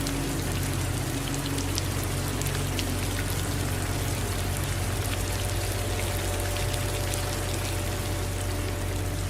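Steady rain falling, with many individual drops ticking, over a low, steady rumble.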